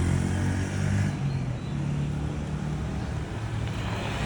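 A car passing on the street, its engine hum loudest for about the first second and then fading, over steady traffic noise.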